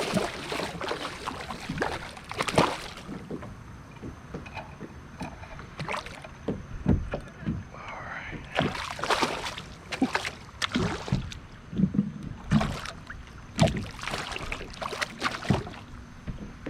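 Irregular splashes and knocks on and around a fishing kayak as a hooked snook is brought in and handled.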